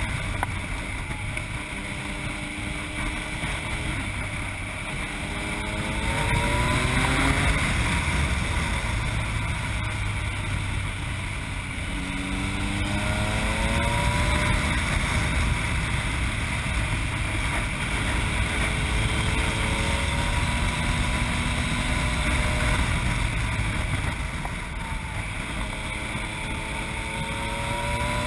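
Yamaha MT-09's three-cylinder engine through an Akrapovic exhaust, pulling on the move: the revs climb several times and drop back between climbs, as in accelerating through the gears. Wind rushes over the microphone throughout.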